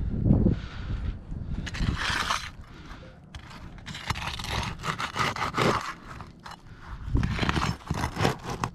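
Repeated bursts of scraping and rustling with a few knocks, from a hand tool being worked at nailed-down material to pull out nails.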